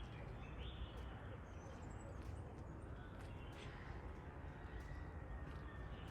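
Faint, short bird chirps over a steady outdoor background hiss and rumble.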